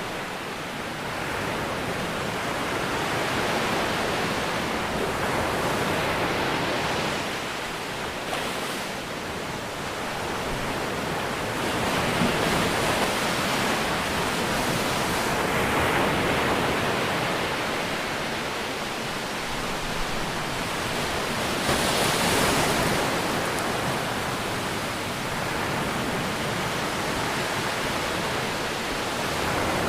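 Ocean waves breaking and washing on a shore, a continuous rush of surf that swells and eases every few seconds, with the strongest surges about halfway through and again about three quarters of the way in.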